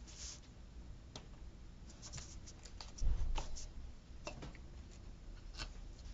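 Paper crafting handling: small clicks, rustles and taps of washi tape and sticker sheets being handled and pressed onto a planner page, with a dull bump about three seconds in.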